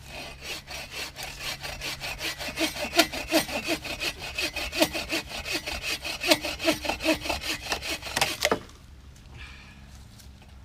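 Hand saw cutting through wood in quick, even back-and-forth strokes, stopping abruptly about eight and a half seconds in.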